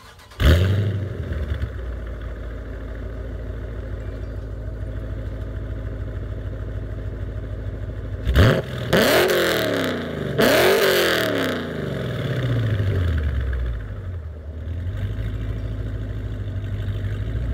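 Dodge Charger's 5.7 Hemi V8, fitted with long-tube headers, high-flow cats and no mid-pipes, comes in loudly about half a second in and settles into a steady idle. It is then blipped twice, about eight and ten seconds in, each rev falling back to idle.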